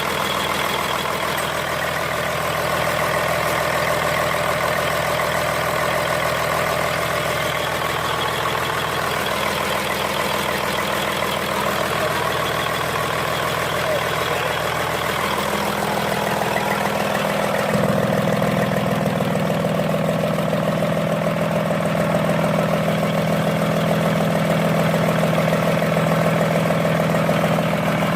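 Komatsu SA6D125-series six-cylinder diesel engine running steadily on a ground test. About two-thirds of the way in, its sound steps up and grows a little louder.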